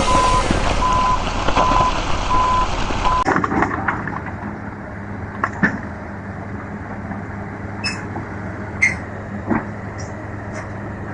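A reversing alarm beeping in an even rhythm over loud noise. After an abrupt change about three seconds in, a heavy truck engine runs steadily, with a few sharp knocks.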